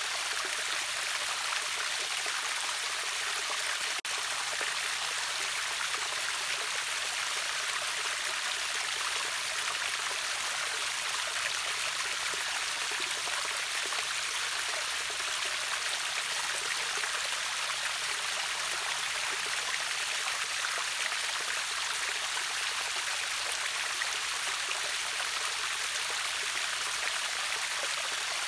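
River water running over a waterfall: a steady, even rush of water, mostly bright hiss with little deep rumble.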